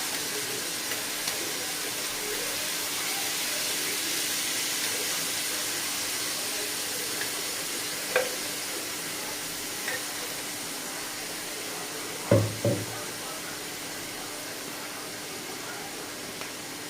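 Chicken mince frying in oil in a kadai: a steady sizzle, with a few short knocks, the loudest two in quick succession a little past the middle.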